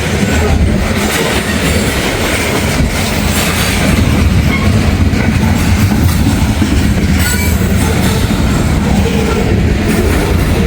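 Norfolk Southern freight train rolling past at close range, a steady loud rumble of cars on the rails, mixed with strong wind buffeting the microphone.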